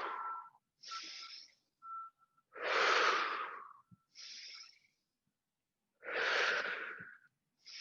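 A person breathing deeply and slowly: about three long, loud breaths, each followed by a shorter, fainter one, with a faint thin whistle in some of them.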